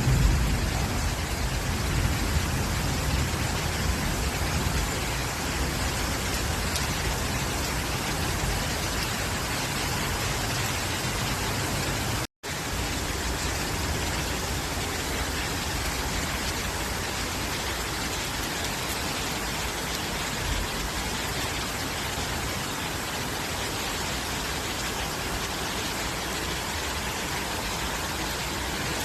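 Steady rain falling on leaves, an even hiss, with a low rumble in the first couple of seconds. The sound cuts out completely for a split second about twelve seconds in.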